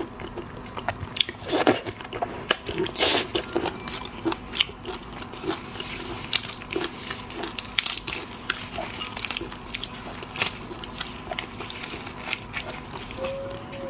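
A person biting and chewing seafood: a run of sharp, crackly crunches, heaviest about two to three seconds in.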